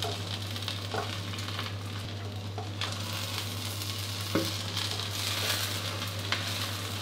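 Mussel-and-egg batter pancake frying in oil in a nonstick wok: a steady sizzle as the first side crisps, with a few light taps and scrapes of a silicone spatula lifting the edge. A low steady hum runs underneath.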